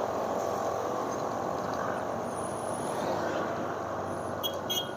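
Motorcycle riding along steadily, its engine running under a constant rush of wind and road noise. A couple of brief high chirps sound near the end.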